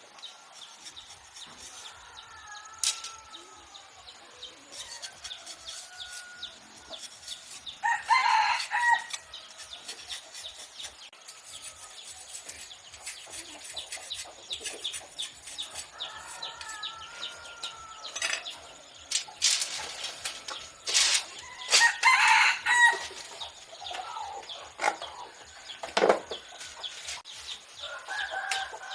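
Domestic chickens clucking, with a rooster crowing twice, about eight seconds in and again about twenty-two seconds in. Scattered clicks and taps are heard between the calls.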